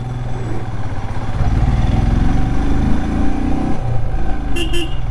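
Royal Enfield Himalayan's single-cylinder engine pulling the motorcycle along, growing louder with a rising note as the rider opens the throttle about a second and a half in; the bike is heavily loaded with luggage and needs more throttle than normal. Two short high chirps near the end.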